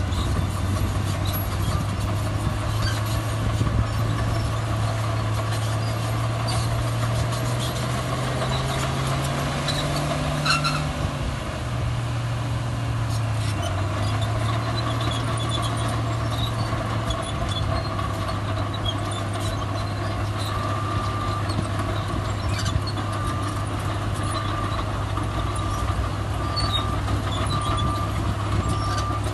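Heavy diesel earthmoving machinery running steadily. The engine note rises for a few seconds and drops back about eleven seconds in, with scattered metallic clanks. From about twenty seconds on, a reversing alarm beeps about once a second.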